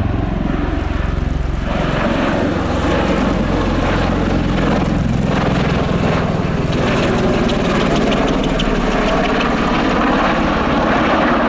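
Bell Boeing CV-22B Osprey tiltrotor in flight: loud, steady drone of its proprotors and twin Rolls-Royce AE 1107C turboshaft engines. A low, pitched rotor hum at first gives way to a broader rushing noise from about two seconds in.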